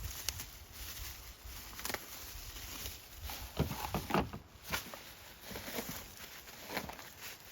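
Scattered light clicks and taps from auto parts being handled, with a louder cluster of knocks and rustling about three and a half seconds in.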